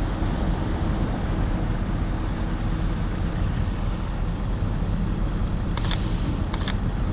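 Steady low rumble of downtown street traffic in a snowstorm. A few short sharp clicks come about six seconds in.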